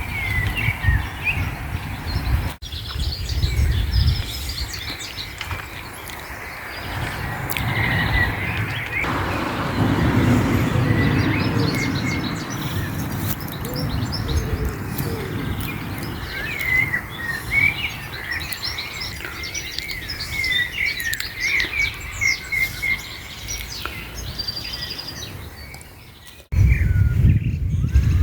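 Small birds chirping and singing, many short quick calls and trills over one another, with a low rumble underneath at times.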